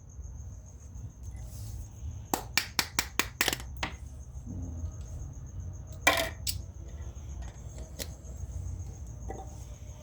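Metal casting tools clinking: a quick run of about eight sharp clicks, then a louder ringing knock and a couple of single clicks. A low steady rumble and a cricket's continuous trill run underneath.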